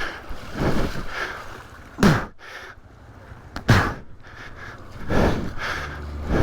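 River water splashing and surging in bursts about every second and a half as a dirt bike with a drowned, silent engine is pushed by hand through it, with strained gasping breaths from the rider.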